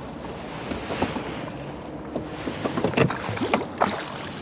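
Small rowing boat being rowed: oars splashing and knocking in their locks in a series of short strokes, loudest near the end, over wind on the microphone.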